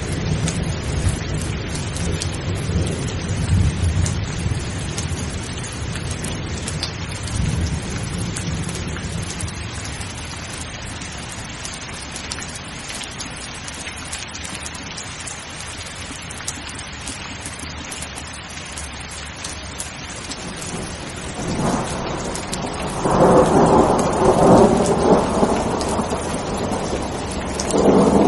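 Steady rain with thunder. A low rumble of thunder fades over the first several seconds. About three quarters of the way in a louder peal of thunder builds, and another starts right at the end.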